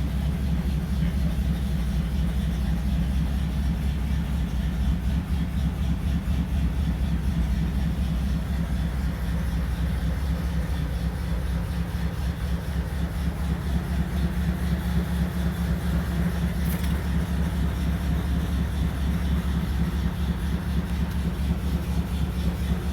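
1951 Ford Custom's engine idling steadily on a cold start, with an even, low pulse.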